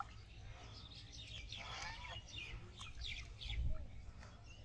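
Birds chirping in quick descending notes, in several short runs, with a brief low rumble past the middle.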